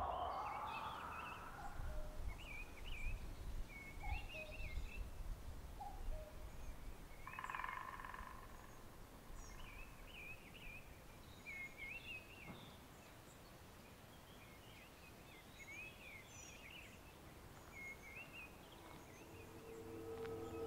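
Woodland birdsong: small songbirds singing short warbled phrases again and again, faint, over a quiet outdoor background. A whoosh fades out in the first second or two.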